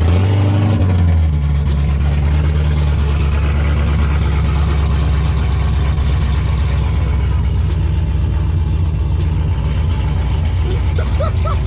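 Car engine just started, revving briefly high, then settling into a loud, steady idle. A few short high-pitched sweeps sound near the end.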